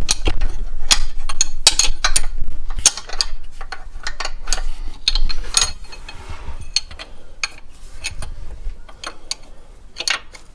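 Socket wrench ratchet clicking in irregular runs, with sharp metal clinks of tools, as bolts are worked loose.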